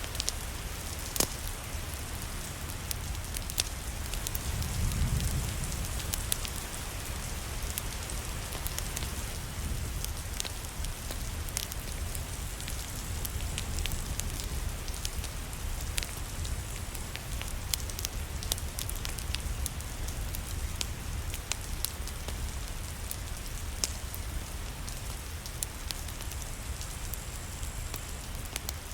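Steady rain with a crackling wood fire, sharp pops and snaps scattered irregularly over the hiss of the rain. A low rumble swells briefly about five seconds in.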